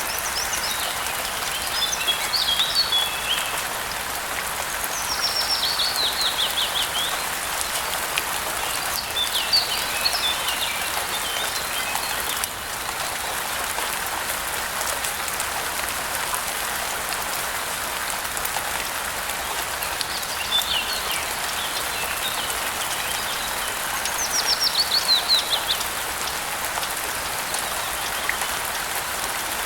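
Steady rain falling on a surface, with songbirds singing over it in several separate phrases. Two of the phrases are fast trills of quickly falling notes.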